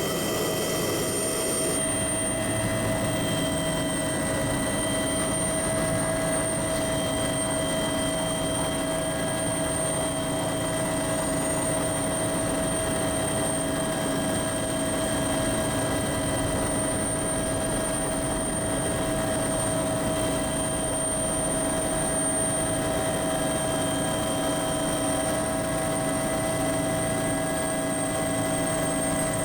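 Aircraft cabin noise in cruise: a steady engine drone with a few constant high whining tones, unchanging throughout.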